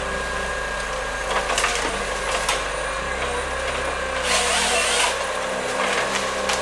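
Heavy machine engine running steadily under load, with a few knocks and a burst of hiss about four seconds in.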